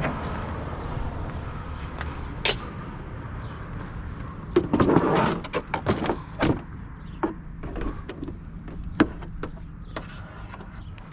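A vehicle engine idling steadily, with a series of sharp clicks and clunks over it, the loudest bunched about five seconds in, like a car door and its fittings being worked.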